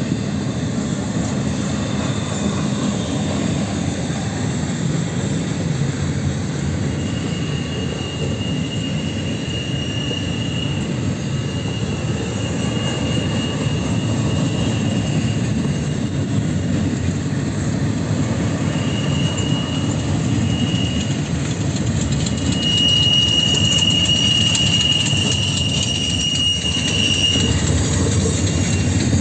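Double-stack intermodal well cars rolling past with a steady low rumble of wheels on rail. A high wheel squeal from the flanges grinding on the tight curve comes and goes, longest and loudest near the end.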